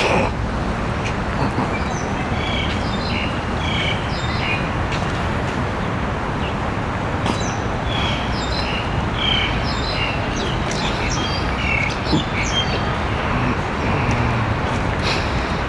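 Birds chirping in short, repeated notes over a steady background hum of city traffic.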